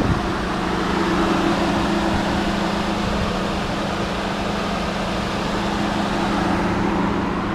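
Steady mechanical hum with a constant low drone and even background noise, unchanging throughout.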